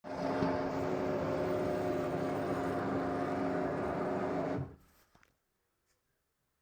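LG washing machine humming during the wash: a steady hum with several held tones, the humming the owner is complaining about. It stops abruptly about four and a half seconds in.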